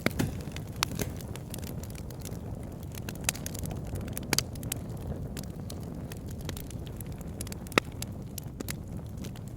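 Wood fire crackling in a fireplace: irregular sharp pops and snaps of burning logs over a low, steady rumble of the flames, with the loudest pop late on.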